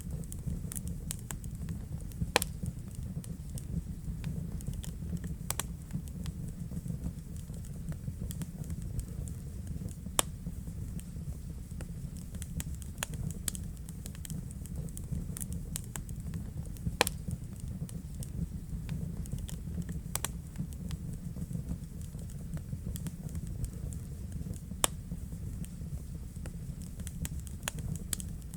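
Wood fire burning in a fireplace: a steady low rumble of the flames with frequent small crackles and four louder sharp pops spread through it.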